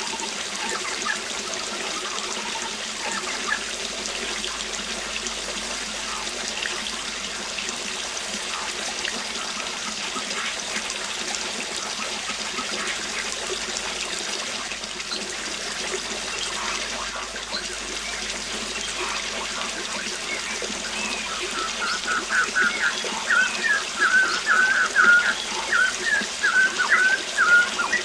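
Waterfall's steady rush of water with scattered bird calls. From about three-quarters of the way in, a bird sings a fast run of chirps that stands out as the loudest sound.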